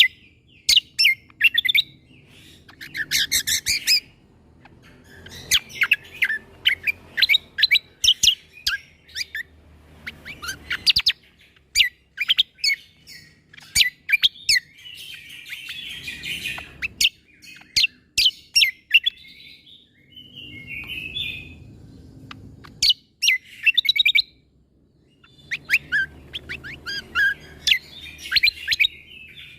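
Cucak kombo (kecial kombok) songbird singing in bursts of rapid, sharp, high notes with brief pauses between phrases. These are the clipped 'shot' notes (tembakan) that bird keepers value in its song.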